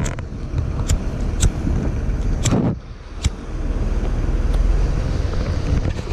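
A car running with a steady low rumble, with several sharp clicks and knocks over it.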